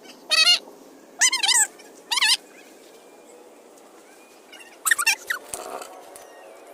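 An animal giving three short, wavering, high-pitched calls in quick succession. A brief loud clatter follows about five seconds in.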